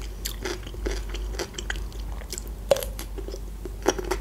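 Chewing a crunchy pickled cucumber: irregular crisp crunches, with a couple of louder ones near three and four seconds in.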